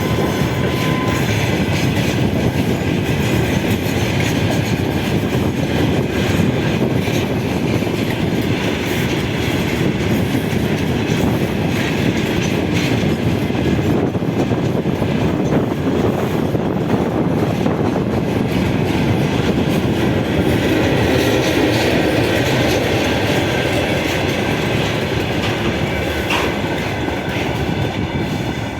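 A train running through the station, with steady rolling noise from wheels on rails and a clickety-clack over the rail joints.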